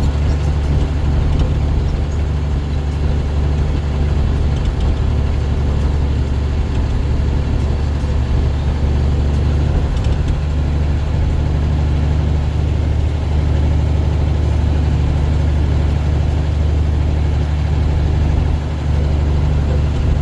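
Heavy dump truck's diesel engine running steadily while driving, a loud low drone heard from inside the cab.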